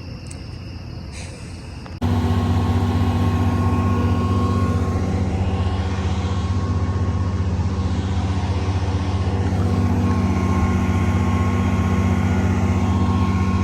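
Crickets chirp for about two seconds. Then, at a sudden cut, a loud engine starts running steadily at constant speed with a deep, even hum.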